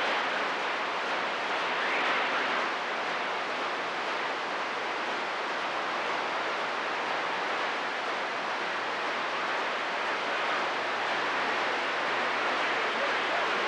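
Steady hiss of static from a CB radio receiver, with no station coming through on the channel.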